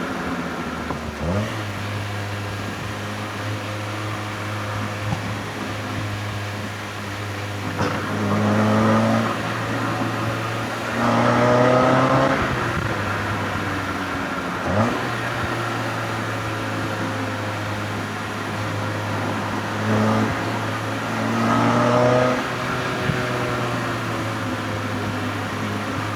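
NB Mazda MX-5 Miata's four-cylinder engine and exhaust heard from the driver's seat. It holds a steady drone between several rising revving pulls under acceleration, with quick sharp rev changes at a couple of gear shifts.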